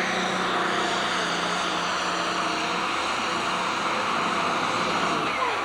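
Super stock pulling tractor's engine running hard under load, a loud steady mechanical noise with a low hum that fades out about three seconds in.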